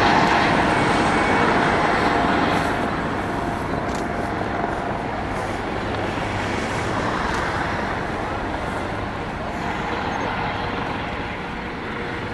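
Steady, loud engine noise with a faint held tone in it, slowly fading.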